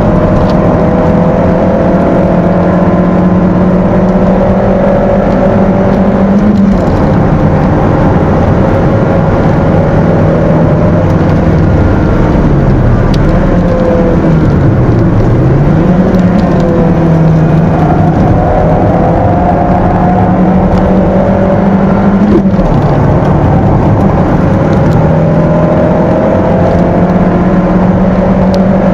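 Stock 1.6-litre four-cylinder engine of a Peugeot 206 heard from inside the cabin at racing speed, running hard at a steady pitch. The note breaks briefly at gear changes about a quarter and three-quarters of the way through, and in the middle the revs drop and climb back twice through a corner.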